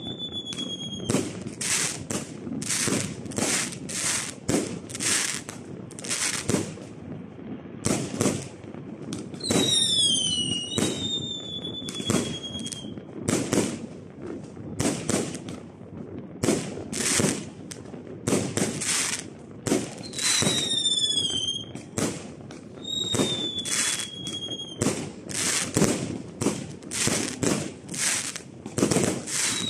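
Fireworks going off in a continuous barrage of bangs and crackles, with several whistling shells: high whistles that fall in pitch and then hold steady.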